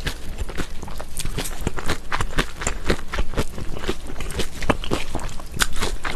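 Close-miked chewing of mulhoe, cold raw-fish soup with thin wheat noodles, shredded vegetables and chili: a dense, irregular run of clicks and crunches several times a second.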